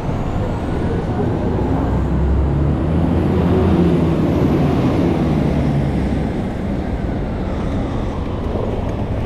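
Street traffic noise with a motor vehicle's engine passing close. The engine grows louder about two seconds in, is loudest around the middle, then fades.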